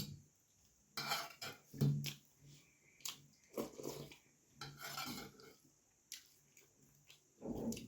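Eating puri and vegetable curry close to the microphone: food and a plate handled and scraped, with chewing, in several short bursts.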